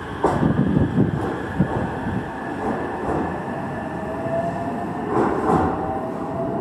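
Train running on rails: a steady rumble with a few knocks and a thin tone that slowly rises in pitch.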